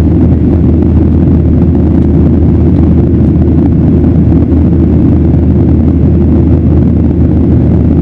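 Steady low roar of a Boeing 737-900ER's CFM56-7B jet engines and rushing air, heard from inside the passenger cabin.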